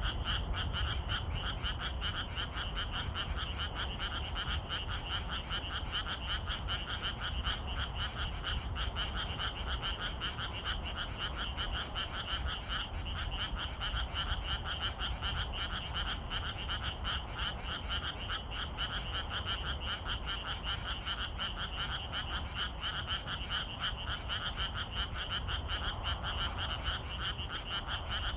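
Dense evening chorus of many frogs calling at once, a continuous mass of rapid pulsed croaks that never lets up, over a low rumble.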